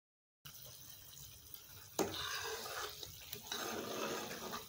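Soured cream (malai) frying in its own ghee in a pan, sizzling and bubbling steadily, with one sharp click about two seconds in. This is the stage where the milk solids are browning and the ghee is separating out.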